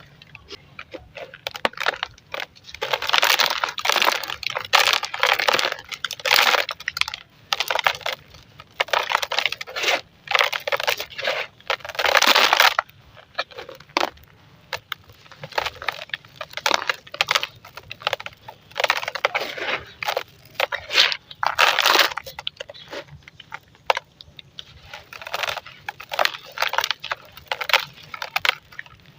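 Chunks of dry and wet golden sand being crushed and crumbled, in a string of irregular gritty crunches, each lasting up to about a second with short pauses between.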